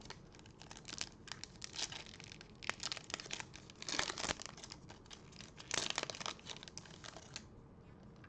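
Trading-card pack wrappers being torn open and crinkled by hand, in a string of irregular rustles and rips that stop about seven seconds in.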